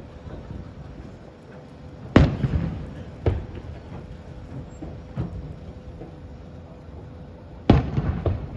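Aerial fireworks shells bursting: two loud sharp bangs, about two seconds in and near the end, with smaller booms between them and a low rumbling echo after each.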